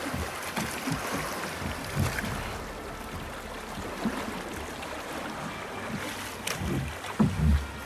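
Rushing river water around a drift boat, with wind on the microphone. A few short low thumps come near the end.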